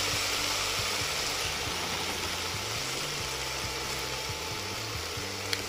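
Freshly added mixed vegetables sizzling in a hot pan, a steady hiss that slowly dies down, over a low hum. One sharp click near the end.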